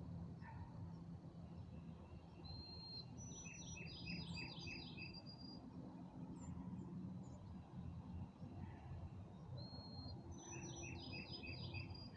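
A songbird singing twice, about seven seconds apart: each song is a thin high note followed by a quick run of about six short notes. Under it is a steady, faint low background noise.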